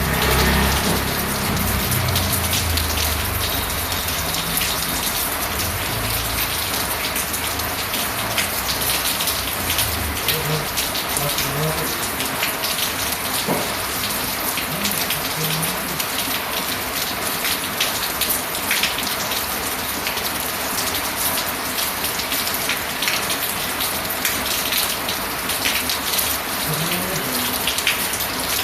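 Steady rain falling, with dense fine drop ticks over an even hiss. A low rumble underneath fades out about ten seconds in.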